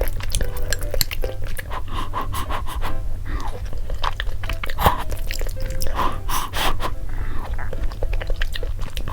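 Close-miked chewing of spicy Buldak noodles, with a dense run of short wet clicks.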